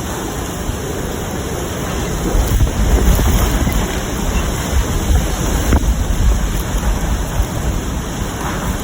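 Hurricane eyewall wind and driving rain, a dense steady rush, with strong gusts buffeting the microphone in a heavy low rumble from about two seconds in.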